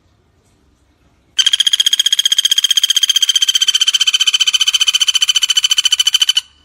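Pelatuk bawang woodpecker giving a long rattling call: a rapid, even string of sharp high notes, about fourteen a second at a steady pitch, starting about a second and a half in and lasting about five seconds before stopping abruptly.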